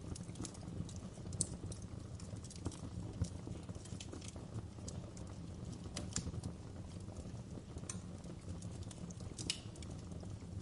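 Wood fire crackling in a fireplace: irregular sharp pops and snaps over a steady low sound of burning.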